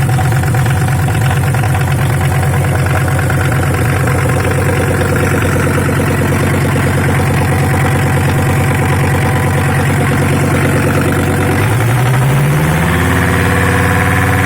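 Audi 100 C3 2.0-litre five-cylinder diesel engine (code CN) idling steadily. About 12 seconds in it is revved up and held at a higher speed.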